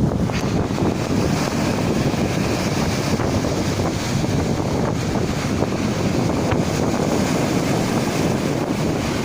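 Steady rush of turbulent water, with wind buffeting the microphone.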